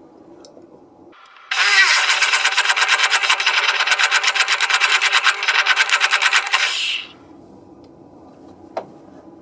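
A handheld power tool's motor runs hard for about five seconds with a fast, even pulsing, starting just over a second in and cutting off suddenly.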